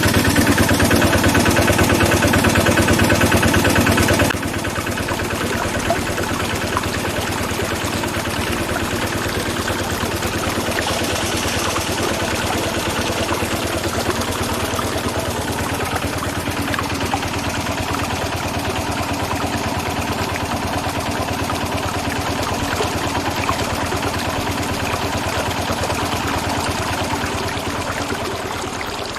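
An engine running steadily with a rapid, even chugging. It is louder for the first four seconds, then drops a step and runs on, fading near the end.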